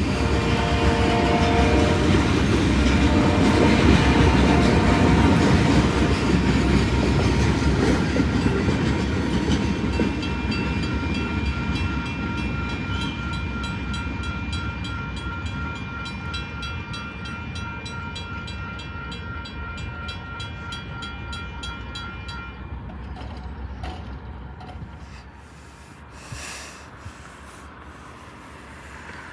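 Train passing with a heavy rumble that peaks a few seconds in and then slowly fades as it moves away. Horn notes sound in the first several seconds, and steady high ringing tones hold through the middle.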